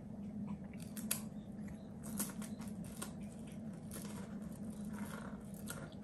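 Crunching and crackling clicks of a cracker being chewed close to the microphone, over a steady low hum.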